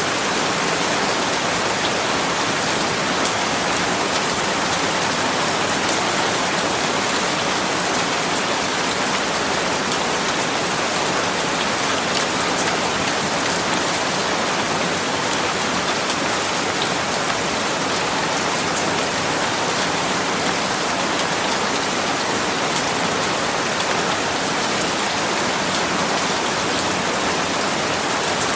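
Steady rain falling on a surface, an even hiss with the patter of individual drops, unchanging throughout.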